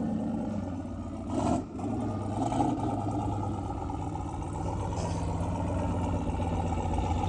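Pickup truck engine idling steadily, with a brief louder burst of noise about a second and a half in.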